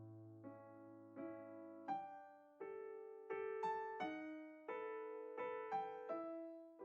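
Background music: a slow melody played on piano or electric piano, one note at a time with chords held beneath.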